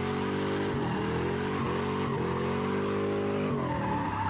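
Car engine revving hard and held at high revs with brief dips, easing off about three and a half seconds in. A tyre squeal begins near the end.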